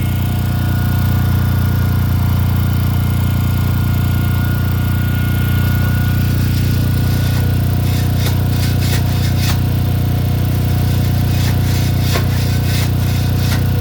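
A machine motor running steadily with a deep, even drone. Through the second half come a run of sharp clicks and knocks.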